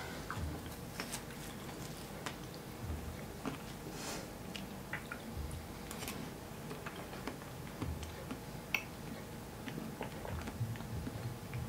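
A person chewing mouthfuls of watermelon eaten off a spoon: soft, wet chewing with occasional small clicks.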